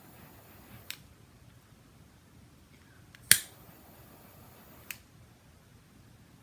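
Sharp clicks: a faint one about a second in, a loud one a little past three seconds, and a fainter one about a second and a half after that, over low room hiss.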